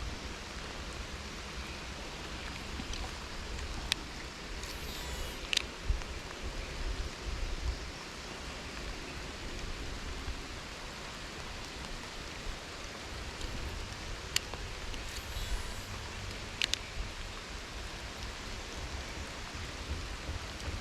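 Fairly heavy rain falling steadily, a continuous hiss, with a few sharp ticks scattered through it.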